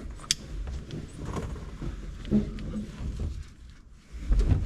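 Handling noise from a new seatbelt being pulled across and buckled: a sharp click about a third of a second in, rustling and low bumps, and a brief low vocal grunt about halfway.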